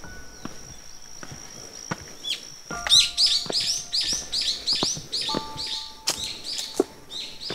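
A small bird repeating a quick high chirp about four or five times a second for several seconds, starting about three seconds in. Footsteps on a stone path knock evenly underneath.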